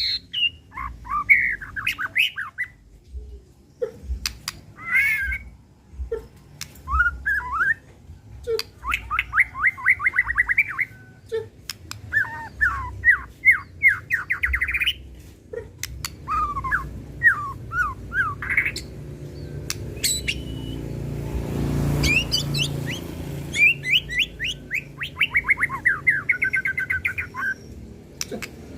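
White-rumped shama (murai batu) singing agitated 'pastol' song: bursts of fast, evenly repeated rising notes, with sharp clicks between the phrases. A rushing noise swells under the song about twenty seconds in.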